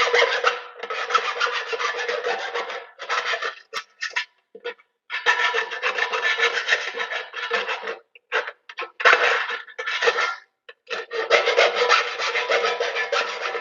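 A file rasping along the cut edges of a metal electrical box to deburr them smooth, in about six runs of strokes, each one to three seconds long, with short pauses between them. A steady ringing tone from the box runs under the rasping.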